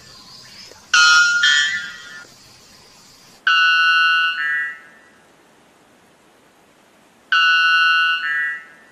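White bellbird calling: three loud, ringing two-part calls a few seconds apart. In each, a steady first note steps up to a higher second note.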